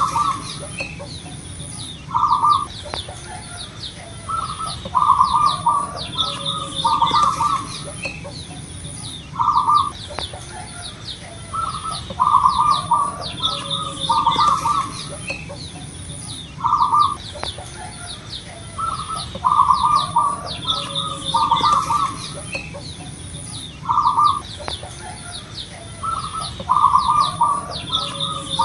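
Zebra dove (perkutut) cooing over and over, short grouped coo phrases every one to three seconds, with high chirping from other small birds throughout.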